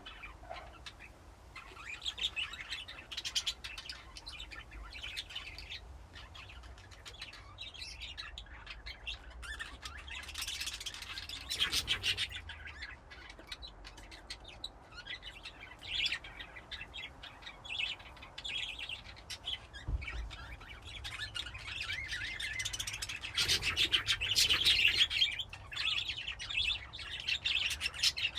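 A group of budgerigars chirping and warbling together, a continuous chatter of short high calls that grows denser and louder in the last third.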